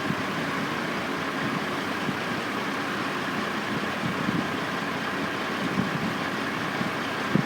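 Steady noise of construction-site machinery and truck engines running, with no distinct knocks or bangs.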